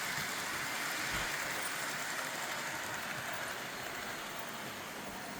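Several Märklin model trains running on a layout at once: a steady whirring rumble of small motors and wheels on the track, easing off slightly toward the end.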